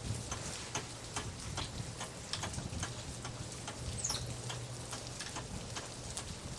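Rain dripping: irregular drops ticking on hard surfaces over a low steady hum, with one brief high falling chirp about four seconds in.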